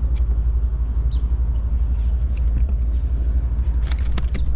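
Low, steady rumble of wind buffeting the microphone, with a few sharp clicks of handling about four seconds in.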